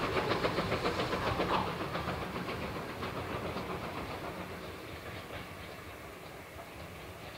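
A train moving away along the line: a rapid, regular clickety-clack from the wheels that fades steadily until it is faint near the end.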